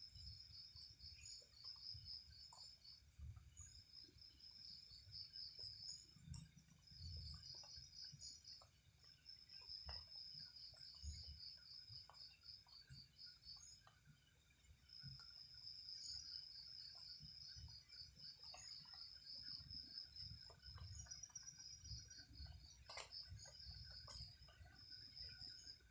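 Night insects, crickets or similar, chirping faintly in fast pulsed trills that come in runs of a second or three with short pauses. Low rumbling from wind on the microphone and scattered faint clicks sit under them, with one sharper click near the end.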